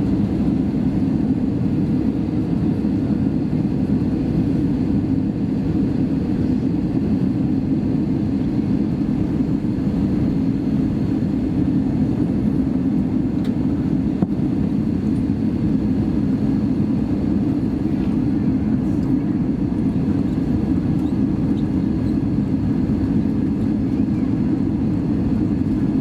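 Steady low drone of an Airbus A320 airliner, heard from inside the passenger cabin.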